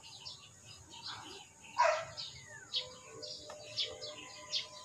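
Small birds chirping over and over in short calls, with one short louder sound about two seconds in.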